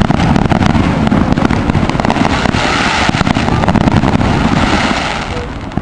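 Fireworks going off: dense crackling and popping, with a hissing spell in the middle, easing off near the end.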